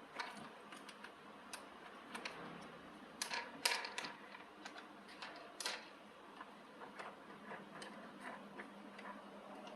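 Irregular light clicks and taps of small hard parts being handled, with a louder cluster of sharp clicks about three and a half seconds in and another near six seconds.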